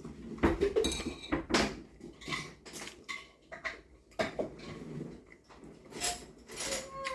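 Irregular short knocks and clatters of household objects, a dozen or so spread unevenly, like things being handled in a kitchen.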